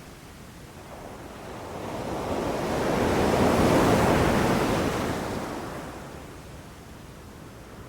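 Ocean surf: one wave swells in, peaks about halfway through, then washes back down to a low hiss near the end.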